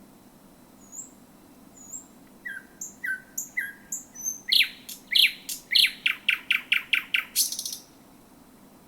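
Thrush nightingale singing one song phrase: a couple of faint high notes, then a run of clear notes that builds into loud, rapidly repeated downslurred notes and ends in a fast rattle about three-quarters of the way in.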